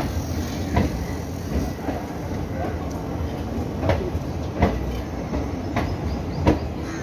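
Train moving past at a station, a steady low rumble with several sharp, irregularly spaced clacks of wheels over rail joints.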